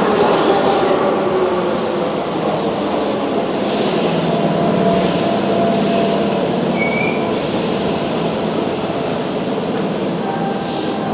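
Keihan 2400 series electric commuter train pulling into the platform and slowing to a stop: a steady rumble of wheels on rail with several short hisses. There are brief high brake squeals about seven seconds in.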